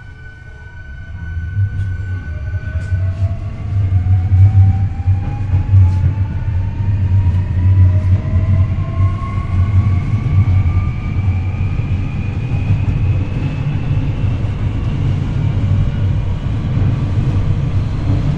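Hankyu 8300 series train pulling away and accelerating, heard from the floor above the motor bogie. The Toyo IGBT-VVVF inverter and traction motors give several whining tones that climb steadily in pitch, under a low rumble from the wheels and running gear that swells over the first few seconds. This car's inverter is noted for unusually high modulation, and this bogie for an abnormal noise.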